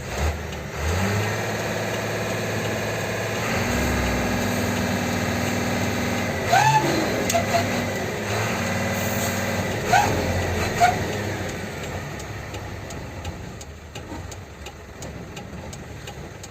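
Heavy diesel dump truck engine running under load, its pitch shifting about three seconds in. Two short, sharp sliding squeals come about 7 and 10 seconds in, and the engine fades away toward the end.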